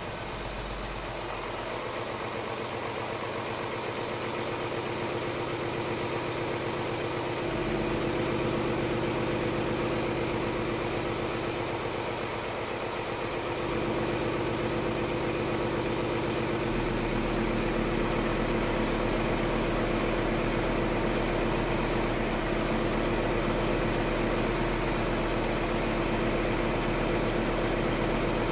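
Scania R500's V8 diesel engine idling steadily, its note stepping up and getting louder about 8 seconds in and again about 14 seconds in.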